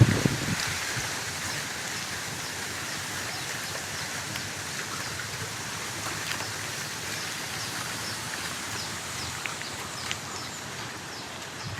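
Steady hiss of wind moving through banana leaves, with faint short high chirps scattered over it. It opens with a few low rustles that die away in the first half second.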